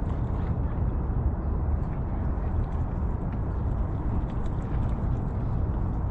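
Wind buffeting the microphone, a steady low rumble with constant flutter, over faint outdoor ambience.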